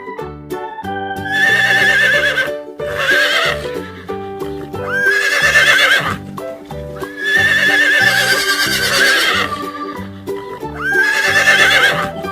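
Horse whinnying five times: high, trembling calls of one to two and a half seconds each, over children's background music with a steady beat.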